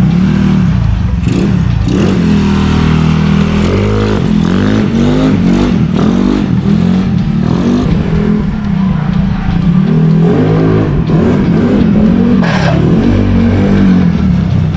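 Yamaha Mio Sporty scooter's 59 mm stock-head engine with an aftermarket Edge Racing exhaust, revving up and easing off again and again as it is ridden on a road test, its pitch rising and falling every second or two. The engine has freshly adjusted valve tappets and a new cam bearing, and the owner calls it smoother and fairly quiet.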